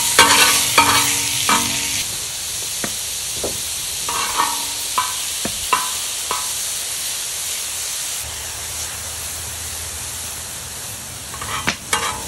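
Beef sizzling in hot oil in a wok, a steady frying hiss. Scattered clinks and scrapes against the wok, busiest in the first two seconds and again near the end.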